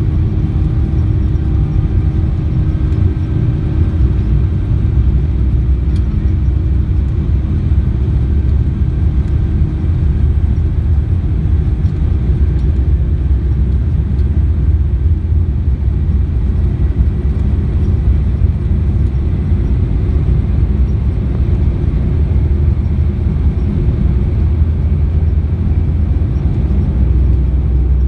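Steady low rumble inside the cabin of a Boeing 787-9 airliner on the ground, with a faint steady hum over it.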